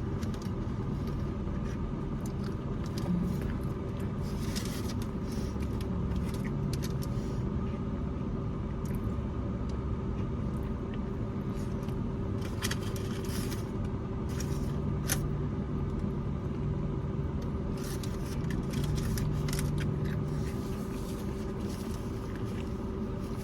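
A steady low engine hum with a constant mid-pitched whine, like an idling vehicle or generator. Scattered short clicks and crinkles sound over it, the kind made by handling food and its wrapper.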